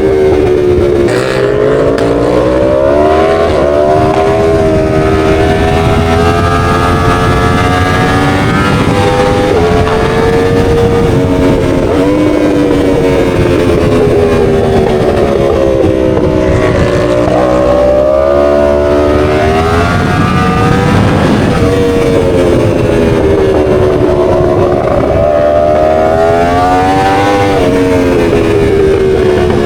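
Motorcycle engine running under way, its pitch climbing and falling repeatedly as the revs rise and drop over several seconds at a time.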